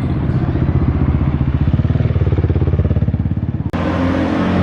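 Loud vehicle engine running at low revs with a rapid, pulsing exhaust note; about three and a half seconds in it breaks off abruptly and a steadier, higher engine note takes over near the end.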